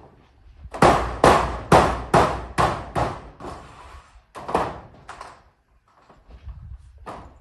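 Hammer blows on zinc roofing sheets: a quick run of about six strikes, two a second, then two more a second or so later and a few fainter knocks near the end.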